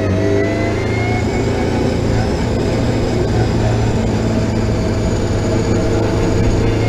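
Car engine running hard on a race track, heard from inside the cabin of a chasing car, as a steady loud drone whose pitch rises a little over the first second and then holds.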